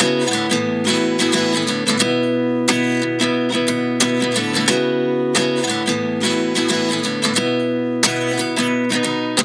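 Background music: an acoustic guitar strumming steady chords, with no singing.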